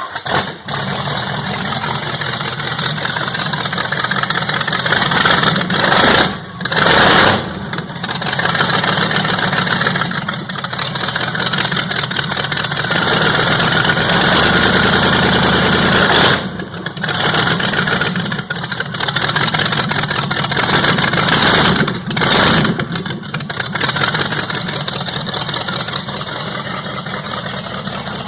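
Fox Mustang 302 (5.0) V8 running on bare exhaust manifolds with no exhaust pipes, at its first start: loud and unmuffled, idling with a few short dips and surges in level.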